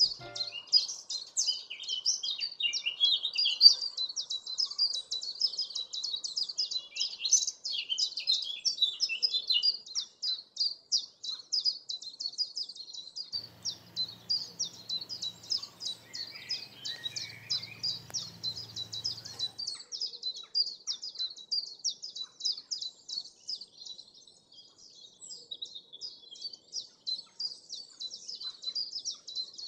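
Small songbirds singing, a rapid run of high chirps that keeps going without a break.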